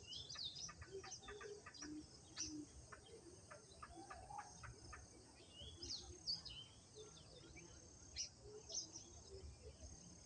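Faint outdoor chorus of birds chirping and calling, many short, quick calls overlapping throughout.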